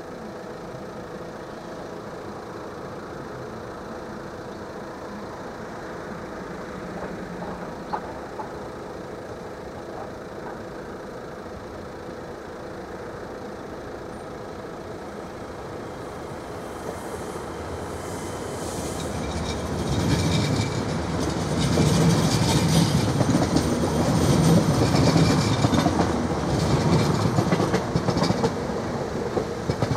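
An NMBS electric local train approaching and running through a level crossing. It grows louder from about eighteen seconds in and is loudest over the last ten seconds as it passes close by. Before that there is only a steady low hum.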